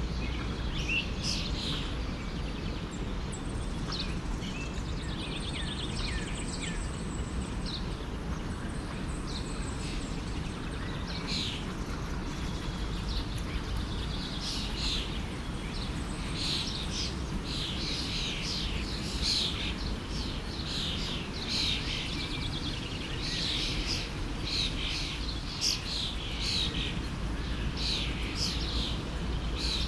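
Many small birds chirping and calling over the steady rush of a flowing forest stream; the chirping gets busier about halfway through.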